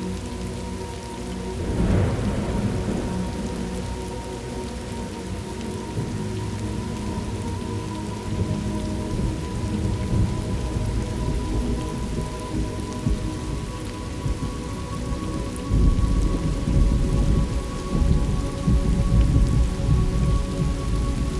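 Thunderstorm ambience: steady rain, with a thunderclap about two seconds in and heavy rolling thunder rumbling through the last several seconds.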